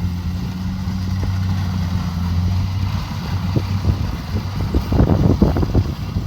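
Kubota DC70 Pro combine harvester's diesel engine running steadily, with rattling and knocking from the machine and a brief burst of louder clatter about five seconds in.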